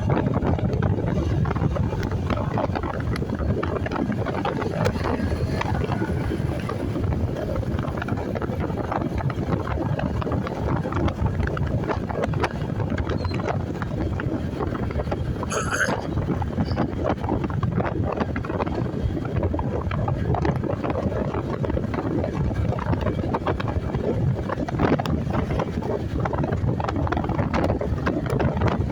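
Wind buffeting the microphone on a moving motorcycle, a steady low rush with engine and road noise beneath it. A brief high rising squeak about halfway through.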